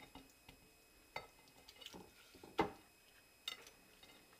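Metal rotisserie spit and its prong forks clicking and knocking a few times as the spit is pushed into a trussed whole chicken, the loudest knock a little past halfway.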